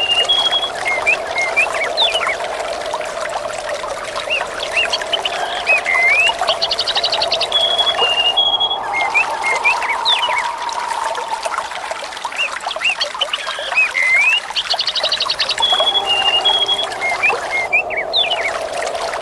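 Nature ambience of water trickling and pouring with birds chirping and whistling over it. A trill followed by a short run of whistled notes comes back about every eight and a half seconds, as in a looped recording.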